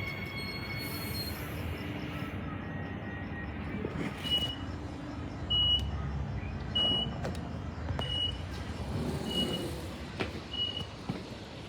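A short, high electronic beep repeating about once every 1.2 seconds, starting about four seconds in, over steady rumbling background noise. At the start a high whine fades out within the first second or so, and a few faint knocks are scattered through.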